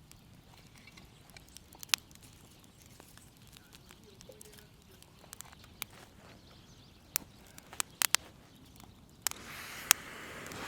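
Wood campfire crackling: sparse, sharp pops over a faint background. Near the end a steady hiss starts up and grows louder.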